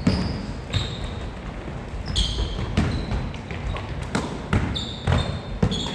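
Basketball being dribbled on a court floor, with sneakers squeaking: about nine irregular bounces and thuds, several with short high squeaks.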